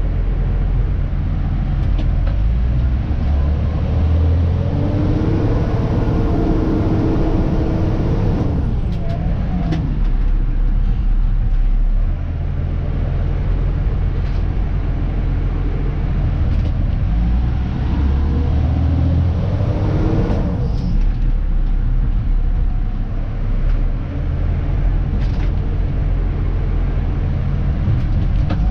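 Dennis Elite 2 refuse truck's diesel engine heard from the cab, running steadily and twice revving up and back down, once about five seconds in and again about twenty seconds in.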